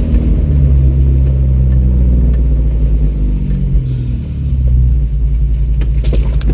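Ford Bronco's engine pulling steadily while driving, easing off briefly about four seconds in and then picking up again. A few sharp knocks come near the end.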